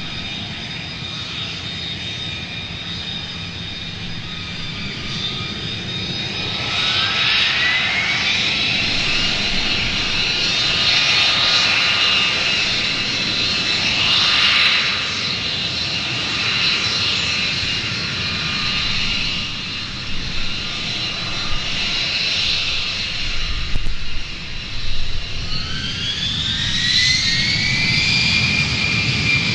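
F-35's Pratt & Whitney F135 jet engine running with a loud, steady high whine over a constant rumble. The whine rises in pitch twice, about seven seconds in and again near the end, as the engine spools up.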